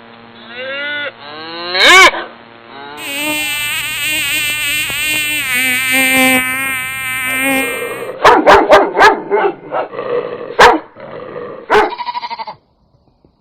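A run of different animal calls, one after another: two rising-and-falling calls, then a long pitched buzzing call lasting several seconds, then a quick string of short, sharp calls.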